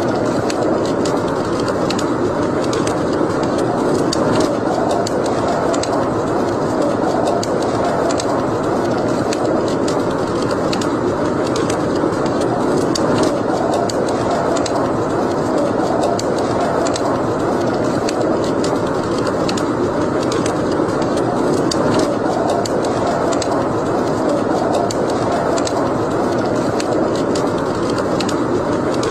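Wood fire burning in a fireplace: a steady rush of flame with many sharp crackles and pops scattered throughout.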